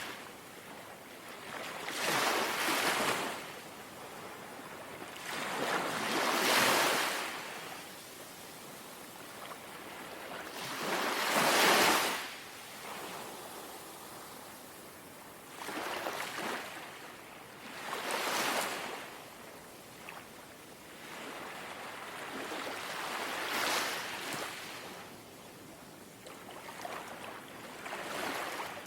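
Small, calm sea waves lapping, each wash swelling and fading every four to five seconds, about seven times.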